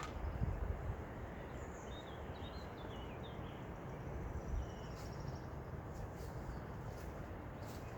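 Wind noise with a low rumble that swells briefly near the start, and a bird singing a short phrase of quick chirping notes about two seconds in, then a thin high note.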